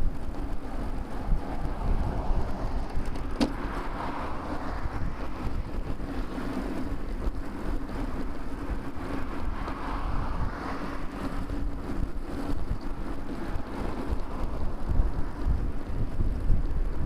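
Wind rumble on a bicycle-mounted camera's microphone while riding in motor traffic, with vehicles swelling past about four and ten seconds in. A single sharp click comes about three seconds in.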